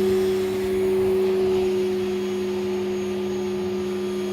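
Vacuum cleaner running steadily: a constant motor hum with the hiss of suction, a little louder in the first second.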